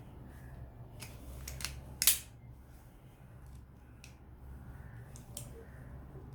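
A few sharp clicks from metal parts and tools being handled during a washing machine repair, with one louder clack about two seconds in, over a low steady hum.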